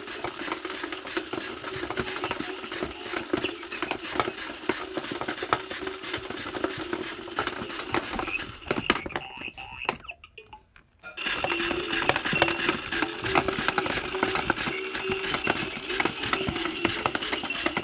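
Battery-powered frog pond toy running: a small motor hums steadily under dense plastic clicking and rattling. It stops for about a second just past the middle, then starts up again.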